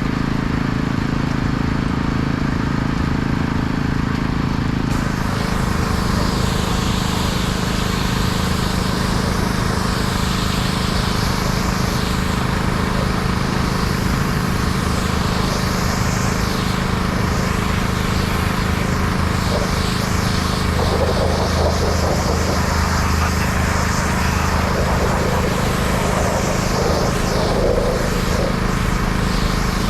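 A pressure washer's engine running steadily. About five seconds in, the hiss of the high-pressure water jet starts and wavers as the spray is swept across the truck.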